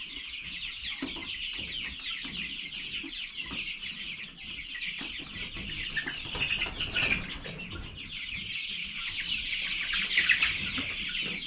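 A flock of young chickens peeping and chirping in a dense, continuous chorus. A few sharp knocks stand out about halfway through.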